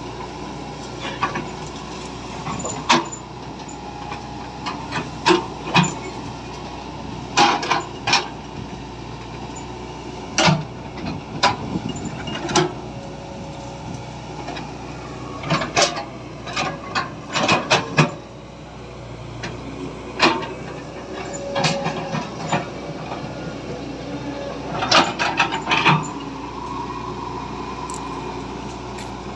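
Plastic toys being handled: irregular clicks and knocks, some in quick clusters, over a steady background hum.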